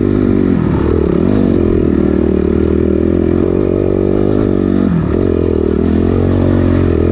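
Dirt bike engine running under throttle. Its pitch drops and climbs back twice, about a second in and again about five seconds in.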